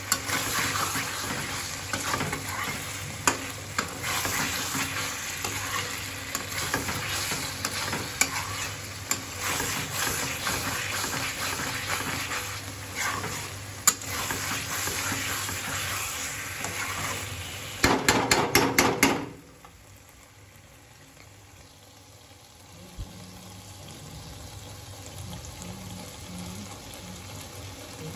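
Chicken curry frying and sizzling in oil in a steel kadai while a metal spatula stirs and scrapes against the pan, with scattered clicks. After a quick run of spatula strokes, the stirring stops about two-thirds of the way in and only a quieter, steady sizzle remains.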